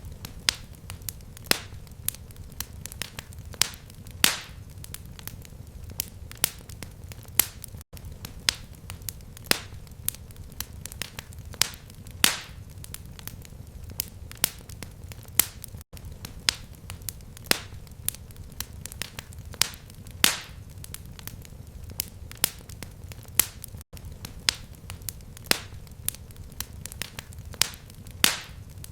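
Fireplace fire crackling: sharp pops and snaps several times a second over a low rumble. The same run of pops repeats about every eight seconds, with a brief dropout at each repeat, as a looped recording.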